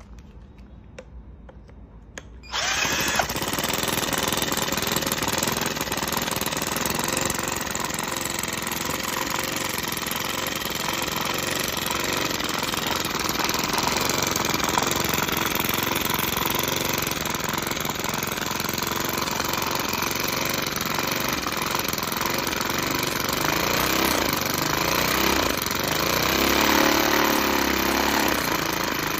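Miniature 2.2 cc model steam engine running fast and steady, starting suddenly about two and a half seconds in, with a machine-like rattle. Near the end its pitch wavers briefly.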